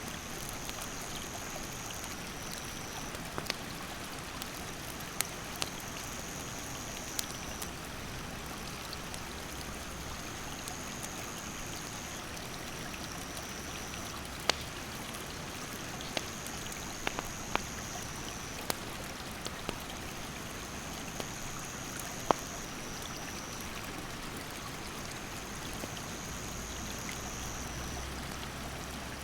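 Mountain stream rushing steadily, with a wood campfire crackling in sharp pops every few seconds. An insect trills in a high, even note that keeps stepping between two close pitches.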